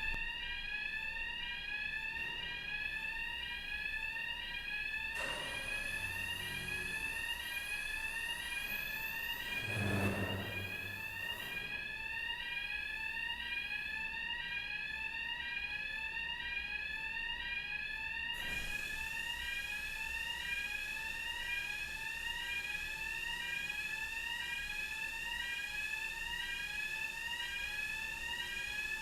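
Warning alarm of a ferry's vehicle-deck ramp as it is lowered: a rising electronic tone repeating steadily over and over. A brief louder low rumble comes about ten seconds in.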